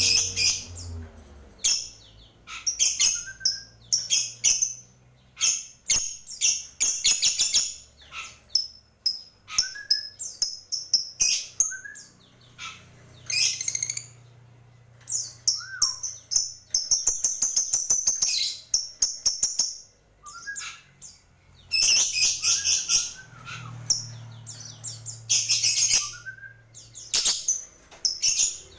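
Lovebird chirping and squeaking in rapid, shrill bursts, with short pauses between runs, over a faint low hum.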